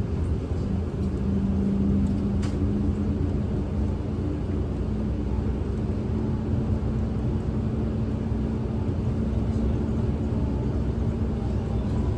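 City bus interior: the engine running under a steady low rumble of road and drivetrain noise, with a low steady hum throughout.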